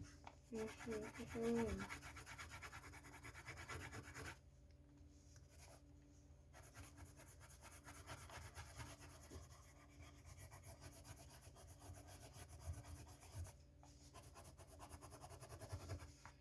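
Coloured pencil shading on paper: faint, steady rubbing strokes with a few short pauses. A brief wavering hum-like voice sound comes about a second in.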